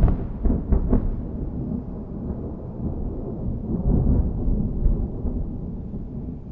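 Thunder: a loud crack with crackling in the first second, then a low rumble rolling on and slowly fading, with a second swell about four seconds in.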